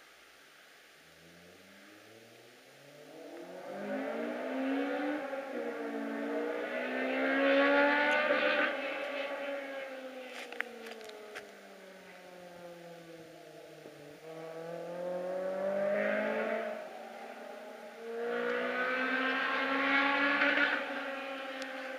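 Honda Integra Type R's four-cylinder VTEC engine revving hard toward 9,000 rpm as the car accelerates along the road. Its note climbs in steps at first, then rises and falls in pitch several times, with brief drops between the climbs.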